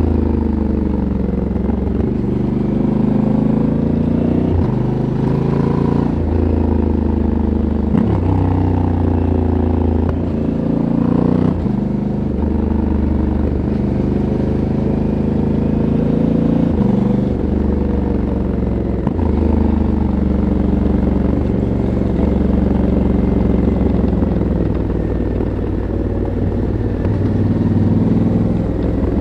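Stock exhaust of a 2022 Honda CRF1100L Africa Twin Adventure Sports, a 1084 cc parallel twin, heard onboard while riding. The engine note rises under throttle and drops off sharply several times, as the rider shifts gears and rolls the throttle on and off through the bends.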